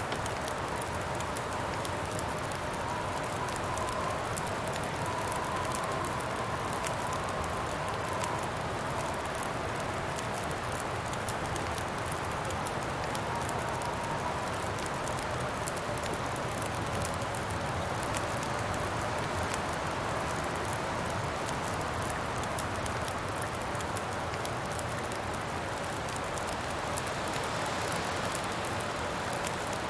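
Steady wind blowing with a campfire crackling, and a faint wavering whistle in the wind.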